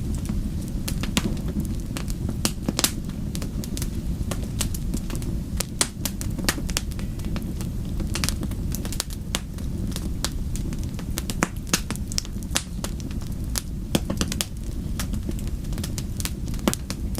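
Wood fire burning in a fireplace, with a steady low rumble of flames and many sharp, irregular crackles and pops from the burning wood.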